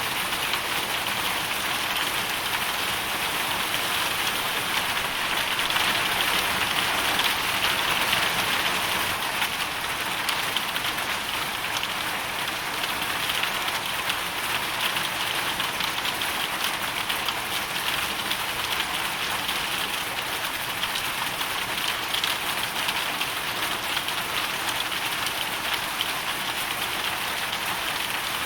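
Hail storm: hailstones and heavy rain pelting down steadily in a dense, even patter, swelling slightly a few seconds in.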